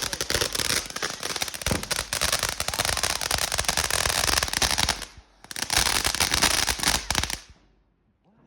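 Firework crackling: a dense, rapid run of small pops, with a brief gap about five seconds in, then stopping suddenly about seven and a half seconds in.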